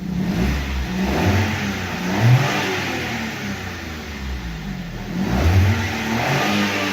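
Suzuki Alto's petrol engine being revved, with the engine note rising and falling and swelling twice, about two seconds in and again about five and a half seconds in.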